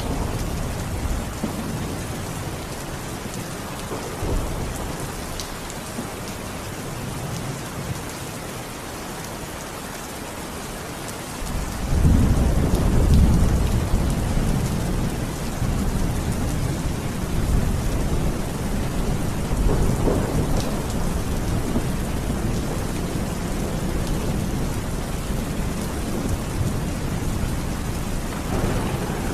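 Steady heavy rain with rolling thunder. A loud low rumble of thunder sets in about twelve seconds in and rolls on slowly under the rain, with fainter rumbles before and after it.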